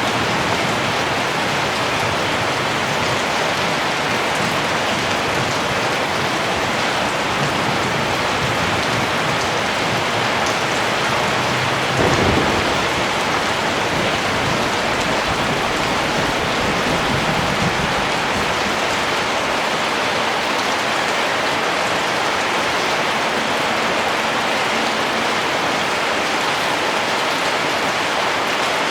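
Real rain falling steadily, an even hiss of drops, with a brief low rumble about twelve seconds in.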